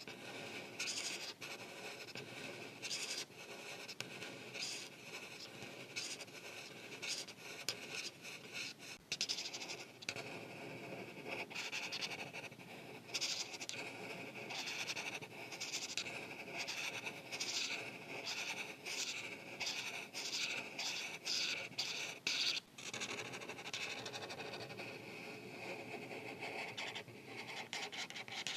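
Art marker tip scratching across paper in repeated short coloring strokes, a few per second, coming quicker for a while past the middle.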